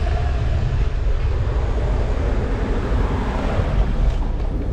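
City traffic noise heard from a moving bicycle, with a steady low rumble of wind on the microphone; the traffic noise swells about three seconds in.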